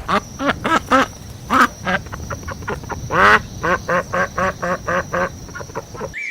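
Ducks quacking in a rapid run of short quacks, with one longer, louder quack about three seconds in.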